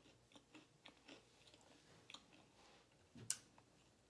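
Faint close-up chewing of a piece of sub roll bread, with soft wet mouth clicks and one louder click about three seconds in.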